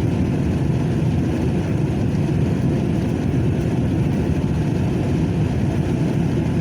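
Truck engine running steadily, a low, even sound with no changes.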